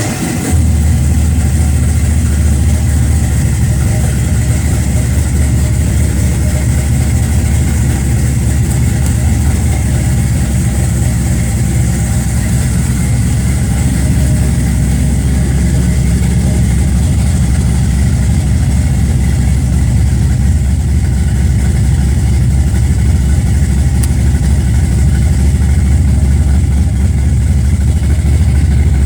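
Hot rod truck's engine idling steadily and loudly, a deep even rumble just after it has been cranked into life.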